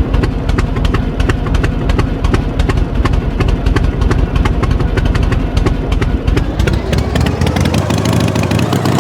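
Tractor engine running steadily with a fast, even firing beat, then revving up, its pitch rising about seven seconds in before holding at the higher speed.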